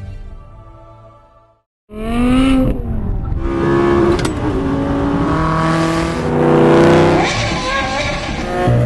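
Soft background music fades out to a moment of silence, then a car engine starts revving hard about two seconds in, climbing in pitch and holding at several rev levels.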